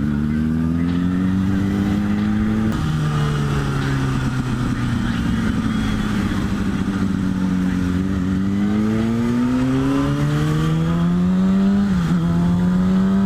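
Kawasaki Ninja ZX6R sport bike's inline-four engine accelerating while riding: the pitch climbs, drops sharply at an upshift about three seconds in, sags slowly, then climbs again from about eight seconds with a brief dip near the end.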